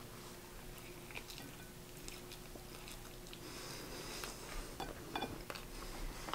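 A person biting into and chewing a mouthful of chicken wrap: faint chewing with small mouth clicks, a few more of them in the second half.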